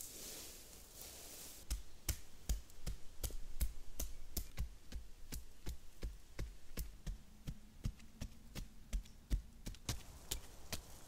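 A digging tool striking into earth over and over, starting about two seconds in, at roughly two to three irregular blows a second, as the shelter pit is dug out. A faint low buzz comes in midway.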